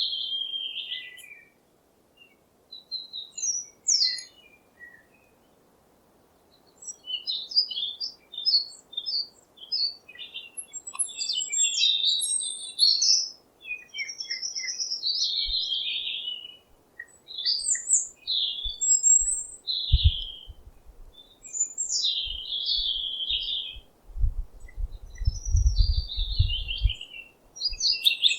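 Songbirds chirping and singing in short, varied phrases, with a brief pause a couple of seconds in and a longer one from about five to seven seconds. Bursts of low rumble come in over the last third.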